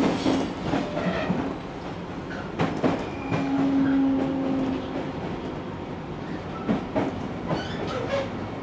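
Interior running sound of a JR Kyushu 813 series electric train with Toshiba GTO inverter control, running in to its stop: wheels clicking over rail joints in close pairs under a steady rumble, with a brief steady hum about three to four seconds in.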